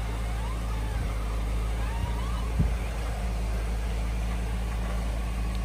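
Jeep Wrangler Rubicon engine running steadily under load as the rig crawls up steep slickrock, with a single thump about two and a half seconds in.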